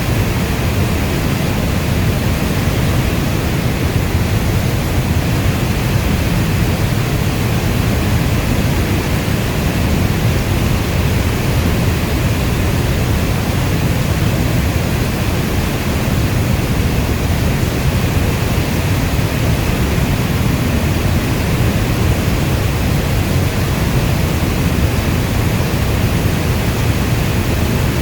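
Steady heavy rainfall: an even, unbroken rushing noise, strongest in the low end, with no thunder claps or individual drops standing out.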